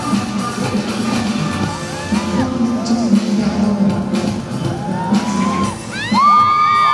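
Live pop music played loud through a concert hall's sound system, with high whoops and screams from the audience over it; a loud, high held whoop comes in near the end.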